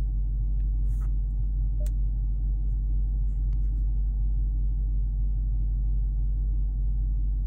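Steady low rumble of a 2019 Dodge Charger R/T's 5.7-litre Hemi V8 idling, heard from inside the cabin, with a few faint light clicks.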